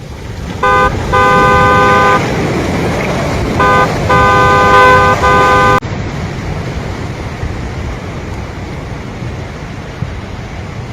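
A vehicle horn honks repeatedly over a loud rushing noise: a short toot, a long blast, another short toot, then two long blasts. After about six seconds the horn stops and only a steady rushing noise is left.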